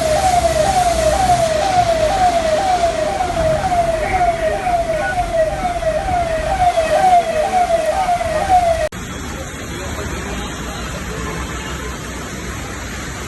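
Electronic emergency-vehicle siren on a fast rising yelp, about two sweeps a second, over a steady background of street noise. It cuts off abruptly about nine seconds in, leaving quieter even noise.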